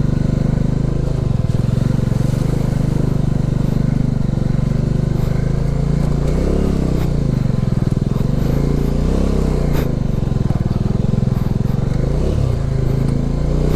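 Motorcycle engine running at low speed, the engine note rising and falling several times as the throttle is worked through deep mud.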